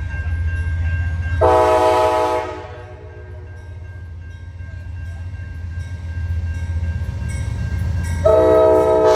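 Amtrak passenger train's diesel locomotive running with a steady low rumble that grows louder as the train pulls out. Its multi-chime air horn sounds a short blast about a second and a half in, then another starts near the end.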